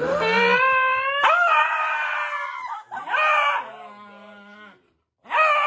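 A dog howling: a run of long, drawn-out howls, each rising at the start and then holding its pitch, broken by a short silence near the end before another howl begins.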